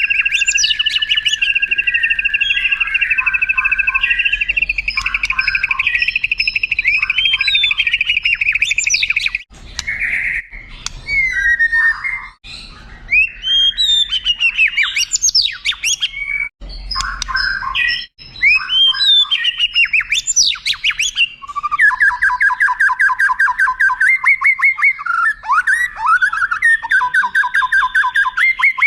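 White-rumped shama (murai batu) singing a long, varied song: for about nine seconds two steady rapid trills at different pitches, then a run of varied whistled phrases sweeping up and down, and a long rapid rattling trill near the end.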